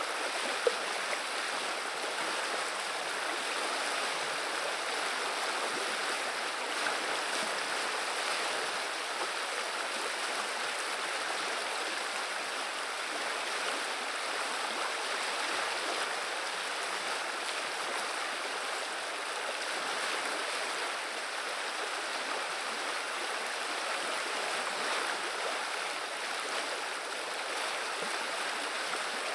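River water babbling and flowing steadily, with one short click less than a second in.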